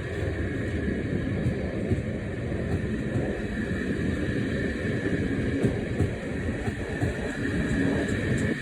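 Passenger train pulling out of a station: a steady rumble of running gear on the rails with a faint, even tone above it.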